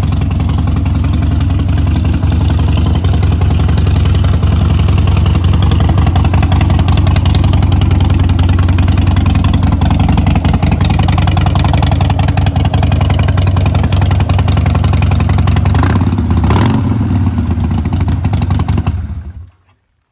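Harley-Davidson XL1200 Seventy-Two's air-cooled V-twin engine running steadily. Near the end it rises briefly in revs, then is switched off and stops.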